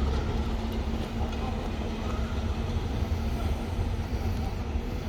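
ADM-13 work train rolling along the track: a steady low rumble of the running gear and engine, without a horn.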